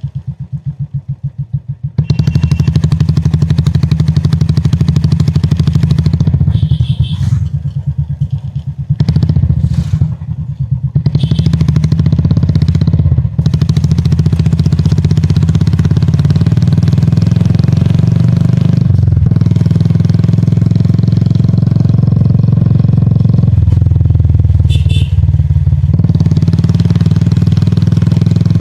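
Royal Enfield Classic 350's single-cylinder four-stroke engine. It idles with a fast, even thud for about two seconds, then runs louder and steady as the bike rides, with a few brief dips in level in the middle.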